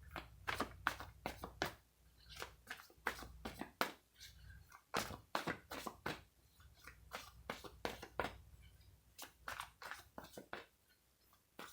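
Tarot cards being handled and shuffled: a run of light, irregular snaps and taps.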